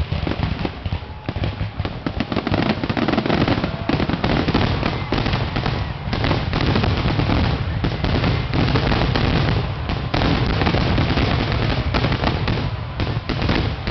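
Aerial fireworks finale barrage: shells burst in rapid, overlapping succession with no pause, a dense string of low booms and crackles.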